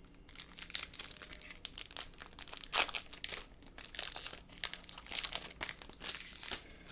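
Baseball trading cards being handled and shuffled, a run of crinkling and rustling with small clicks that stops shortly before the end.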